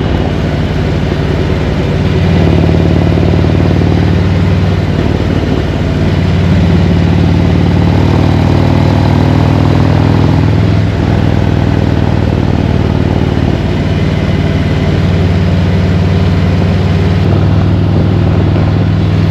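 Harley-Davidson V-twin motorcycle engine running steadily at cruising speed under way. Its note steps up about two seconds in and eases briefly twice later on.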